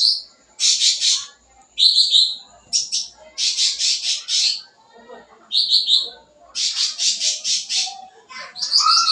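Cucak ranting songbird singing hard: high-pitched phrases of fast, chattering repeated notes, each lasting about half a second to a second, broken by short pauses, with a lower, falling phrase near the end.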